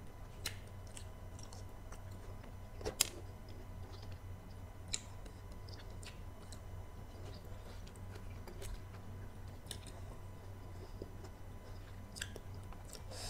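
A person chewing and eating red grapes close to the microphone: soft, wet mouth clicks and smacks at irregular intervals, the sharpest about three seconds in, over a steady low hum.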